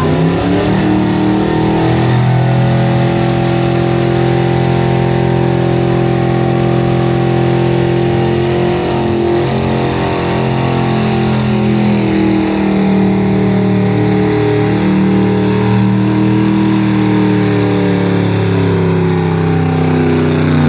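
Car engine revving during a burnout: it climbs in pitch over the first couple of seconds, then is held steady at high revs with slight wavering, over a loud hiss from the spinning tyres.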